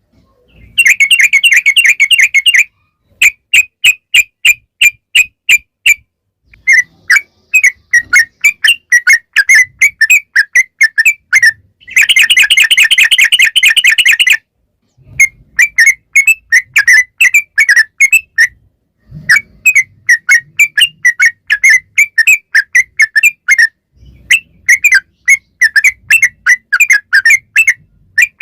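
Yellow-vented bulbul (trucukan) singing loudly in bouts of quick chirped whistle notes. Twice the notes run together into a long rapid roll, the 'ropel' phrase.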